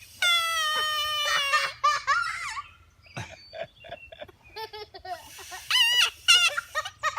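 A thumb whistle blown through the gap between cupped thumbs. A long shrill squawk sags slightly in pitch near the start, and shorter warbling squawks follow about six seconds in.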